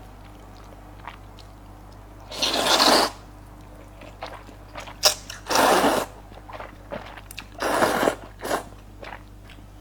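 Close-miked eating of soft rice noodles mixed with cucumber. Three loud noisy mouth sounds of about half a second each, with small wet clicks of chewing in between.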